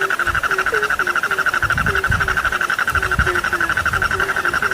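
Frog chorus: many frogs call together in a dense, fast-pulsing trill, while short, low, falling croaks repeat two or three times a second. A few low rumbles come and go beneath it.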